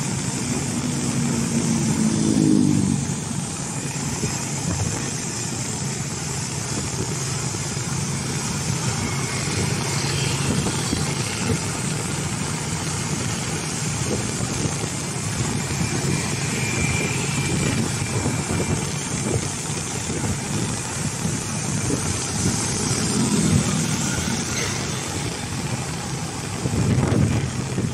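Steady engine and road noise of vehicles moving through busy town traffic. An engine revs up briefly about two seconds in and again later on.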